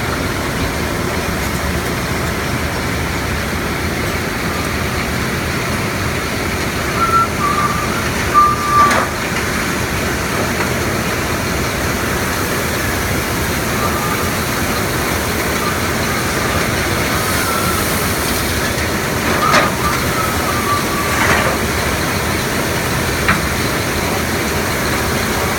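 Gravel-crushing and sand-making plant running: a loud, steady rumble of heavy machinery, with a few brief high squeals.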